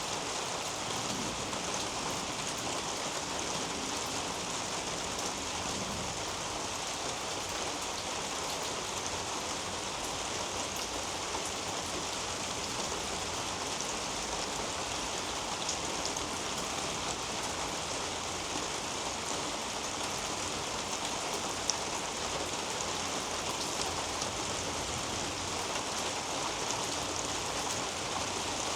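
Steady rain falling on garden foliage and a roof overhead, an even hiss with a few louder single drops ticking now and then.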